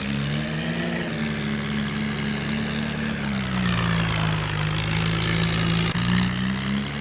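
Tractor engine running steadily, its pitch rising about a second in, easing down after about three seconds and picking up again near six seconds as the revs change.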